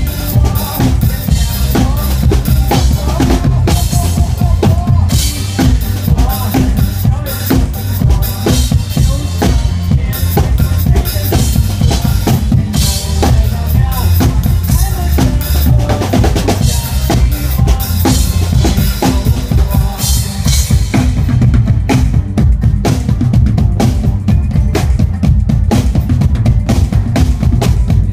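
Drum kit played live to a pop backing track, with a steady kick drum beat, snare and cymbals over the song's melody. The cymbal wash thins out about three quarters of the way through while the beat carries on.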